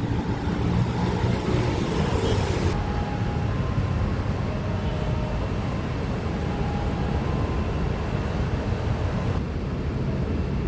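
Steady low rumble of a vehicle in motion, with a few faint brief tones.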